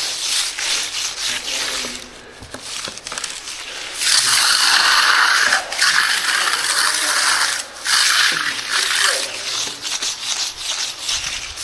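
Steel hand trowel scraping across a partly set concrete slab during finishing: a gritty rasp in several long sweeping strokes with brief breaks between them, quieter for a couple of seconds near the start.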